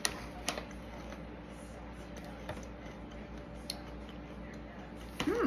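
Chewing of small crunchy yogurt-coated pretzels, with a few sharp crunching clicks spaced a second or more apart. Near the end comes a short hummed "mmm" that rises and falls in pitch.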